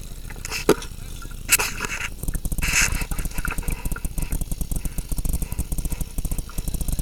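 Two-stroke chainsaw engine running with a rapid, even low pulsing that grows stronger about two seconds in. Two sharp clicks come about a second in.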